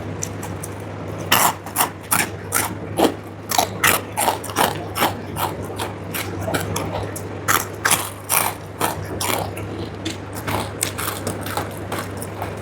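Close-miked eating: rapid, irregular crunching and chewing of crisp food, several crackles a second, over a steady low hum.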